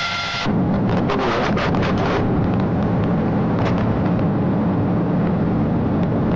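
Steady engine and road noise of a police car driving fast in pursuit, with a run of sharp clicks or rattles between about one and two seconds in.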